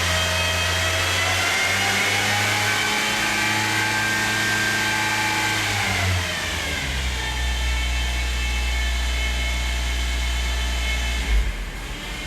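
Honda Odyssey RB1 running with a whine over the engine, the whine rising slightly early on and falling in pitch about six seconds in as the engine note drops; the owner suspects a failing power steering pump, a known fault on this model. A brief knock near the end.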